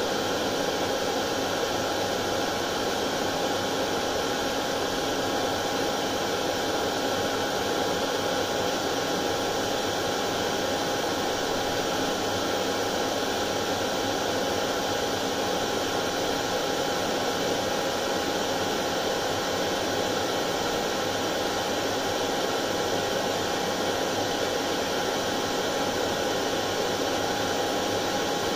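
Hair dryer running steadily on one setting: an even rushing of air with a thin steady whine.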